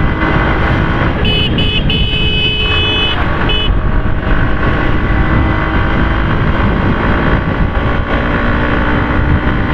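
Hero Xtreme 160R's single-cylinder engine pulling hard at road speed, under heavy wind noise on the microphone. A vehicle horn sounds in several short and long blasts between about one and four seconds in.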